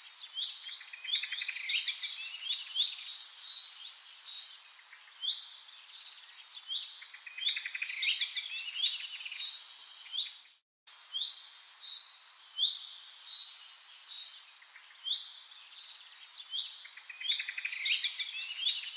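Birdsong: bursts of chirps, quick downward-sliding whistles and rapid trills, repeating every few seconds. It cuts out completely for a moment just under halfway through, then resumes.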